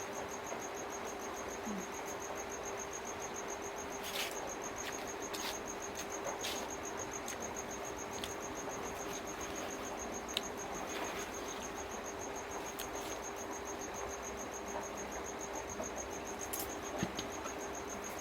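A cricket trilling steadily: a high, rapidly pulsing chirp that stops near the end. Under it a steady low hum and a few short clicks.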